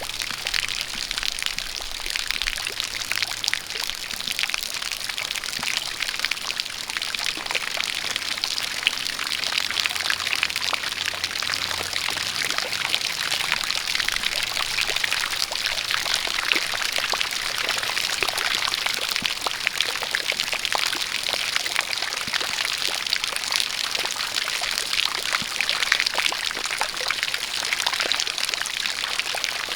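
A jet of water pouring steadily while rain falls, an even, unbroken hiss full of fine drops.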